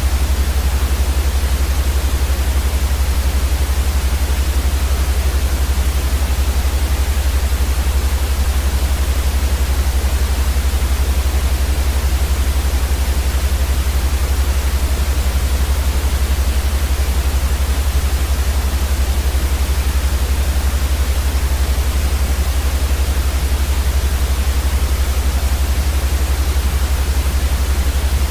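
Continuous white noise for infant sleep: an even, unchanging hiss with a strong deep rumble underneath.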